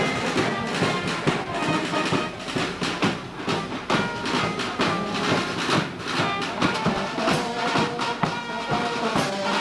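Brass band music with drums: held brass notes over a steady beat.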